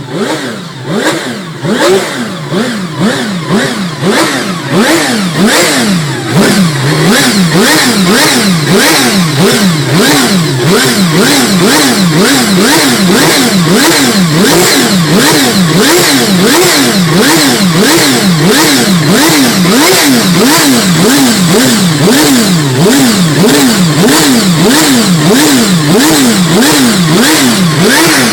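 Ferrari 333SP race car's V12 engine being revved in a stationary sound check. The revs rise and fall over and over, at first irregular and quieter, then from about six seconds in a loud, steady rhythm of about two blips a second.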